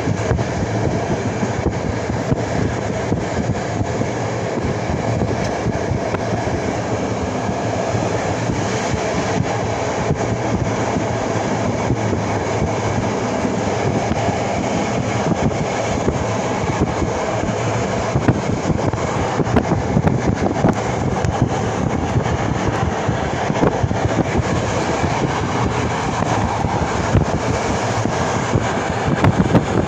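A passenger train running along the track, heard from inside a carriage: a steady rumble of wheels on rails with frequent clicks and knocks, which become busier and louder in the second half.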